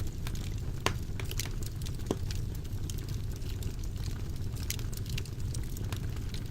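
Wood fire burning in a fireplace, crackling with irregular sharp pops and snaps over a steady low rumble. The sharpest pop comes just under a second in.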